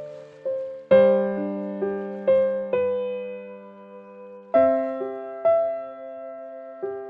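Slow, gentle piano music: soft chords struck about a second in and again midway, with single notes ringing and fading between them.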